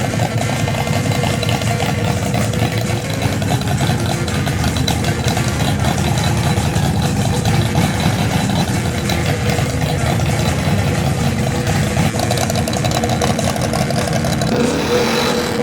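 Hot rod engine idling steadily with a fast, even firing pulse.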